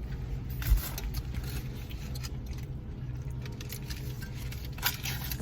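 Light clicks and rustles of handling over a steady low hum, with a low thump just under a second in and a sharper click near the end.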